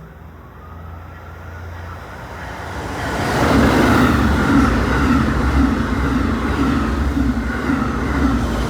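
Amtrak Acela high-speed trainset passing at speed. The rumble and rush swell about three seconds in and stay loud, with a regular beat about twice a second.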